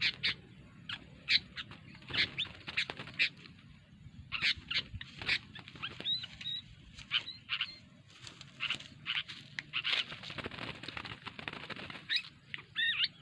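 A trapped wild bird fluttering and beating its wings in irregular bursts, with a few short high chirps.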